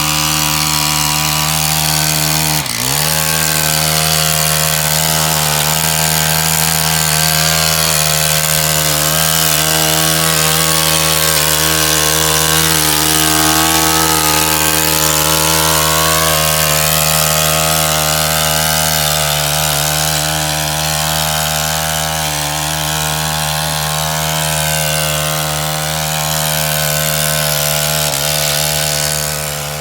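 Petrol chainsaw running at high speed, cutting wood. The engine note holds steady, with a brief dip and recovery about three seconds in.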